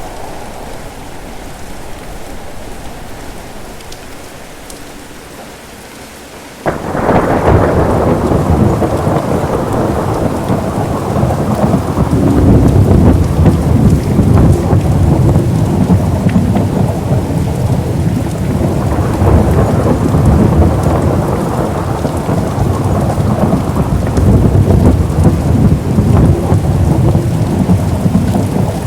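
Steady rain, then about a quarter of the way in a sudden loud thunderclap that rolls on as a long, rumbling peal of thunder over the rain for the rest of the time.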